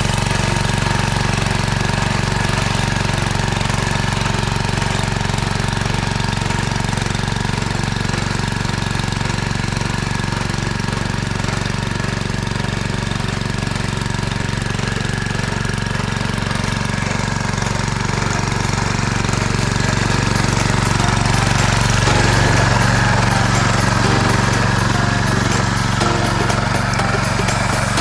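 Mini tractor's engine running steadily with a rapid mechanical knock, while it cultivates to weed between cabbage rows. It grows somewhat louder about twenty seconds in.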